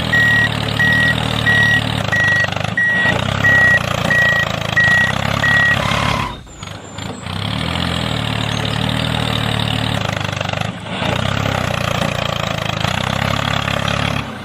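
A reverse-warning beeper beeps about twice a second for roughly six seconds over a running engine. After a brief drop in level, the engine carries on running steadily.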